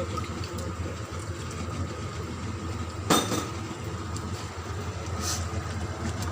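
A utensil clinking sharply once against a cooking pot about three seconds in, with a lighter clink near five seconds, over a steady low hum.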